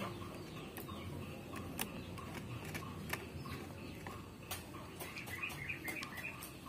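Quiet outdoor background with faint bird calls and a few light, sharp clicks, some of them likely from handling the meter's test leads.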